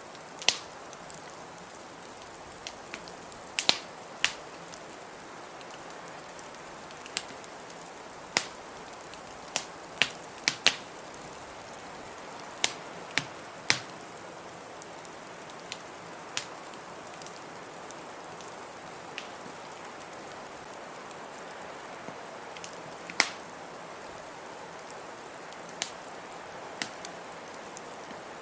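Wood fire crackling in a fireplace, with irregular sharp pops over a steady hiss of blizzard wind.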